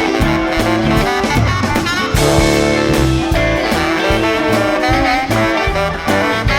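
Instrumental passage of a blues-rock band jam: a saxophone lead holding long notes over bass and steady drums.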